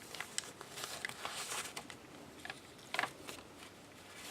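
Paper pages of a handmade junk journal being turned and handled: soft rustling and a few light clicks, with one louder rustle about three seconds in.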